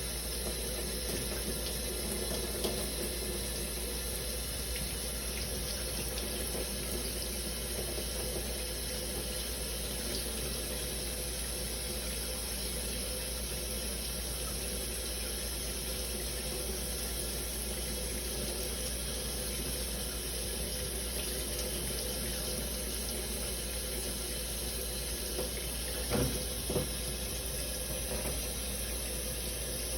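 Shower water running steadily, spraying and splashing, with two brief knocks about three quarters of the way through.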